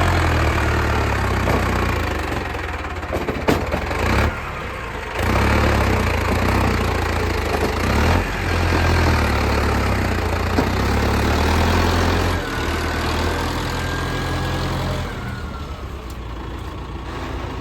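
Tractor diesel engine running, its low drone dropping back and picking up again several times.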